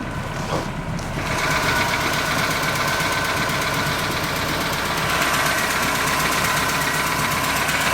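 MerCruiser 3.0-litre four-cylinder sterndrive engine idling steadily, growing louder about a second in as the engine hatch opens.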